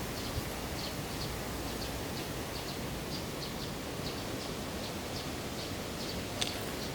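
Outdoor ambience: a steady background hiss with faint, short, high chirps repeating two or three times a second, and a single sharp click about six seconds in.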